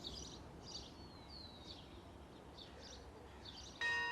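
Birds chirping faintly and repeatedly over a quiet outdoor background, with one short whistled glide. Near the end a chime-like ringing tone starts suddenly and holds.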